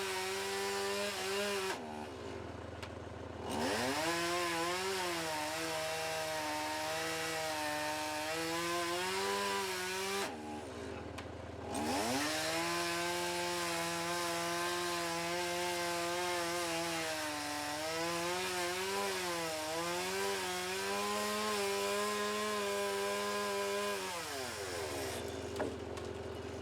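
Two-stroke chainsaw running at full throttle while cutting elm wood. It drops back to idle twice for a moment and revs up again, then drops to idle near the end.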